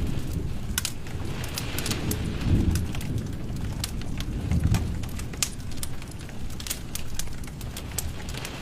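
Wood fire burning in a fireplace: irregular sharp crackles and pops over a low rumble of flames that swells a few times.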